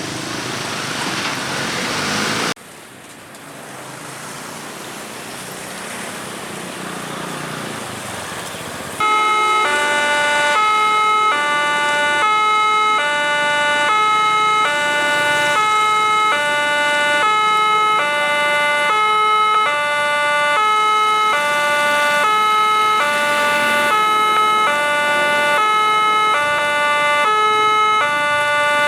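Road traffic noise, then about nine seconds in a railway level-crossing warning alarm starts. It is a loud electronic two-tone signal alternating steadily, about one cycle a second, warning that a train is approaching.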